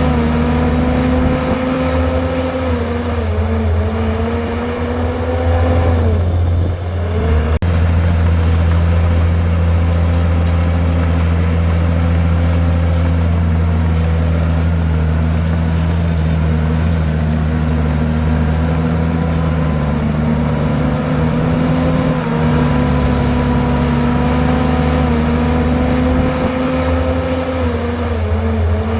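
Komatsu bulldozer's diesel engine running hard while pushing rock and soil. Its pitch sags under load and recovers a few times, most deeply about six to seven seconds in, with a single sharp knock just after.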